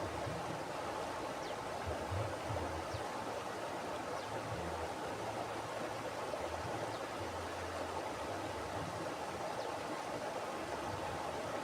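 Mountain river flowing: a steady rush of water, with an uneven low rumble underneath.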